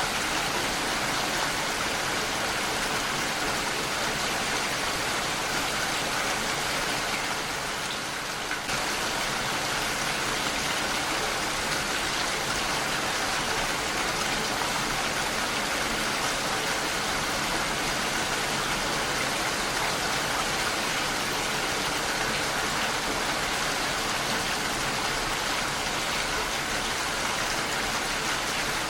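Heavy rain falling steadily against a window, a dense even hiss of drops. It softens briefly about eight seconds in, then comes back abruptly.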